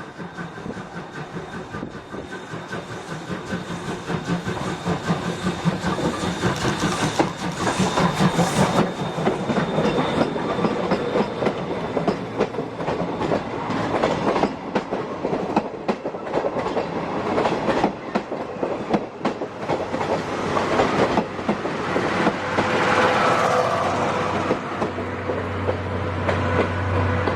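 Chichibu Railway SL Paleo Express steam train passing: a fast rhythmic clatter of wheels and cars over the rails, growing louder over the first several seconds and then holding. A steady low hum joins near the end.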